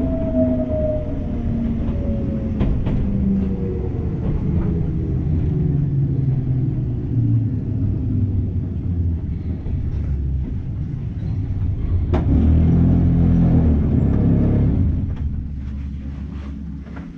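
Enoden electric train running, heard from inside the car: a low rumble with a motor whine that falls steadily in pitch over the first several seconds as the train slows, and sharp rail clicks here and there. The sound swells for a few seconds, then drops off near the end.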